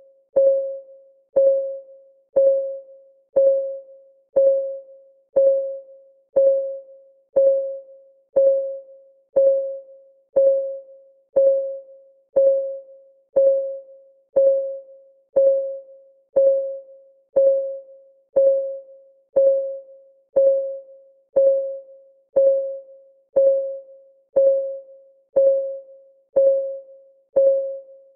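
Countdown timer's clock-ticking sound effect, one tick about every second, evenly paced. Each tick is a sharp click with a brief ringing tone that quickly dies away.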